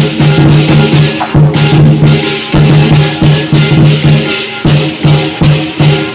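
Lion dance percussion: a large lion dance drum beating a fast, steady rhythm of about three to four strokes a second, under continuous clashing cymbals.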